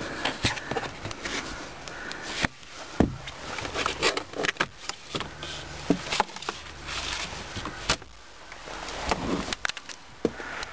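Irregular clicks and knocks of a car door and its handle being worked, over steady background noise.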